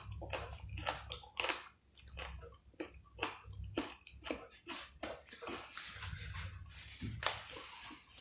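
Close-miked eating: wet chewing and mouth smacks coming irregularly, two or three a second, with a stretch of hissy noise past the middle.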